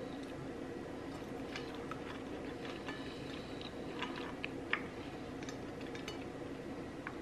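Close-up chewing and biting of fried chicken: scattered short, crisp mouth clicks and crunches, the loudest about four to five seconds in, over a steady low background hum.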